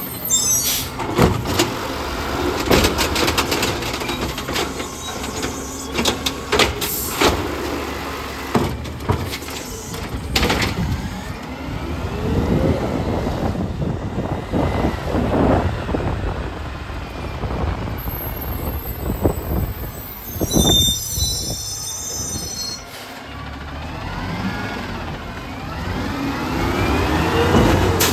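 Garbage truck at work: its engine revs up and down repeatedly over a run of sharp clanks and bangs, with a high squeal about two-thirds of the way through and the engine rising again near the end.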